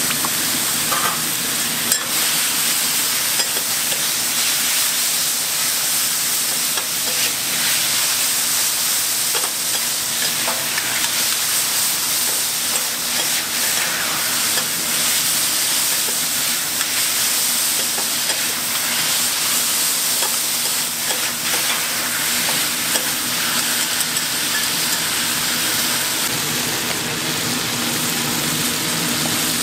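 Yakisoba noodles and bean sprouts sizzling on a hot flat-top griddle while being stir-fried with spatulas, a steady frying hiss with frequent clicks and scrapes of the spatulas on the steel.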